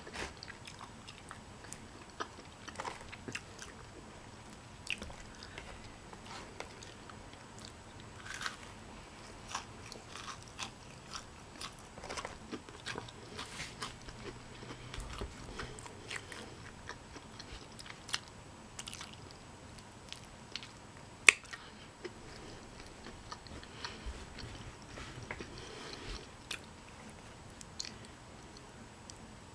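A person chewing and biting food, with many small irregular mouth clicks. One sharp click stands out about two-thirds of the way through.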